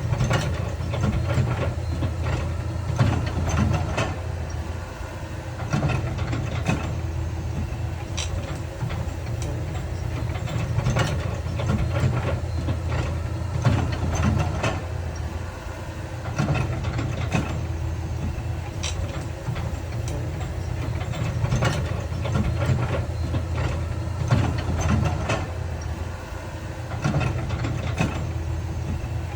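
Heavy diesel earthmoving machinery running with a steady low rumble, with irregular clanks and knocks scattered throughout.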